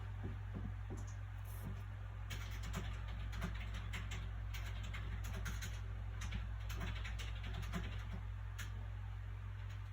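Soft crackling and rustling of book pages being handled and turned, in many short clicks from about two seconds in until near the end. A steady low hum runs underneath.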